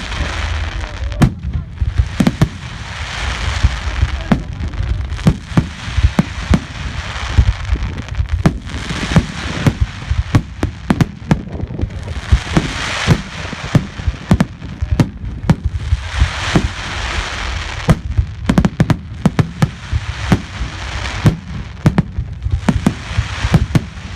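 A fireworks display going off: a rapid, irregular run of sharp bangs from shells bursting, with repeated swells of crackling every few seconds.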